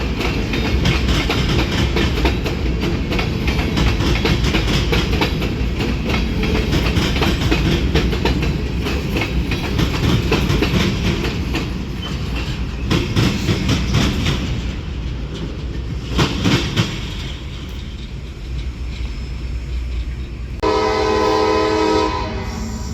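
Freight train rolling through the yard: a steady rumble with the clickety-clack of wheels over rail joints. Near the end a locomotive horn sounds a steady chord for over a second.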